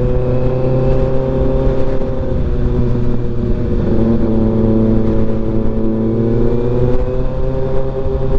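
Motorcycle engine running at a steady cruising speed, with wind noise buffeting the helmet-mounted microphone. The engine pitch dips slightly about four seconds in, then slowly climbs again near the end.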